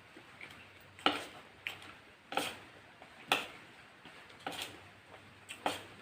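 Close-up eating sounds from a meal of fried chicken and rice: a series of short, sharp crisp clicks and crunches, about one a second, some coming in quick pairs.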